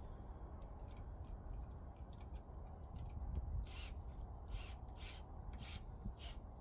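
Scattered small clicks and taps, then about halfway through five short rasping scrapes in a row, roughly two every second, as of a tool or material being rubbed or scraped during roofing work.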